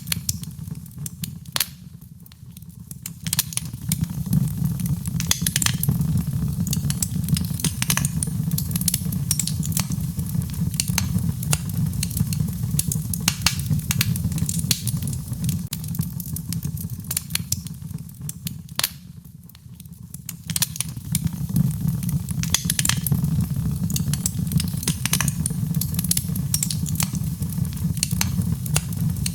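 Wood fire burning in a fireplace: a steady low rumble of flames under frequent sharp crackles and pops from the burning wood. The sound dips briefly twice, a few seconds in and again about two-thirds of the way through.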